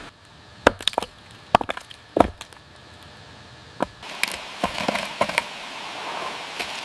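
Wood cracking and knocking as it is broken or split: a few separate sharp strikes in the first couple of seconds, then from about four seconds in a denser crackle with many small snaps.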